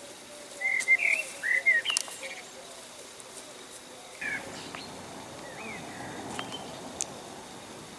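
Birds chirping in short, quick notes that bend up and down, a cluster of them in the first two seconds and a few more around four to six seconds in, with a few sharp clicks.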